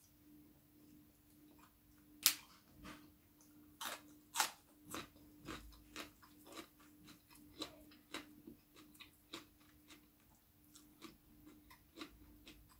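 A person chewing food, with irregular crisp crunches and mouth clicks about once or twice a second. The loudest crunches come about two seconds in and again around four seconds. A faint steady hum runs underneath.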